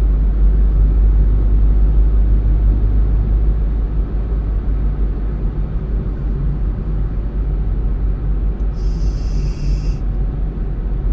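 Car cabin noise while driving: a steady low rumble of tyres and engine. About nine seconds in, a short high-pitched hiss lasts about a second.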